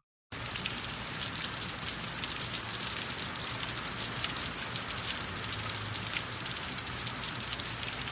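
Rain falling steadily on a surface, a dense patter of drops, starting abruptly just after the beginning.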